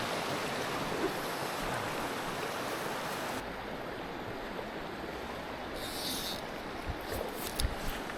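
Mountain stream water rushing steadily over rocks, the sound growing duller about three and a half seconds in, with a few short clicks near the end.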